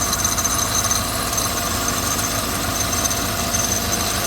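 Chevrolet Suburban's 5.3 V8 idling, with a thin high-pitched squeal from the accessory drive coming and going. The noise remains with a new belt tensioner fitted; the owner puts it down to a bad water pump.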